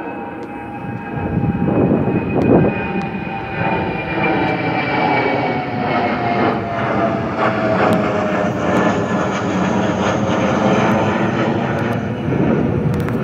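Departing jet airliner's engines at takeoff power passing by: a loud rumble that swells in over the first two seconds and then holds, with whining tones that slowly fall in pitch as the aircraft goes past.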